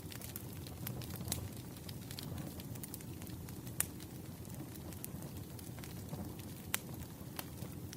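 Wood fire crackling: irregular sharp pops and snaps over a steady low rumble, with the loudest pops about four seconds in and near the end.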